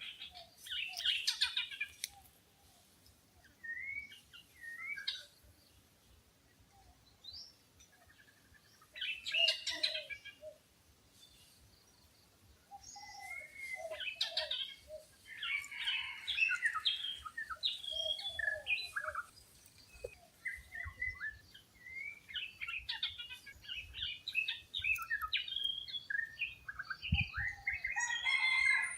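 Wild birds calling, a mix of short chirps and whistled notes in bouts, sparse at first and busier from about halfway through.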